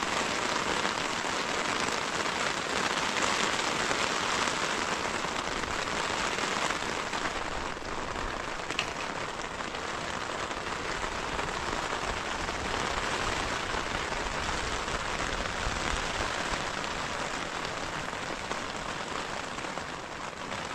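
Heavy rain falling steadily on the fabric of a camping tent, heard from inside the tent as a constant hiss of drops.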